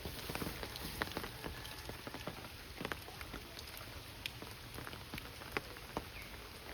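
Monsoon rain falling steadily, with heavy drops striking close by in irregular, sharp taps.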